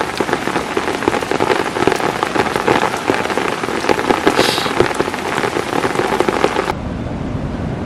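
Heavy rain falling, with many distinct drop hits. About seven seconds in it cuts abruptly to a duller, lower rushing noise like wind.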